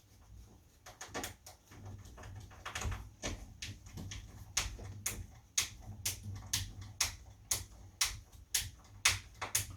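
Small screws being driven by hand into a door handle's fixing plate: a run of sharp clicks, irregular at first, then settling to about two a second.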